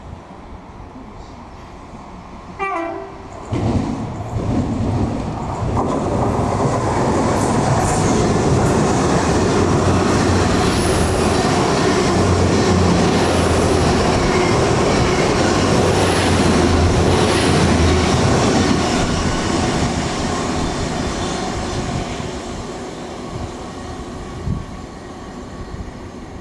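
A train sounds a short horn blast about three seconds in, then runs through the station, its noise building, holding loud for about ten seconds and fading away.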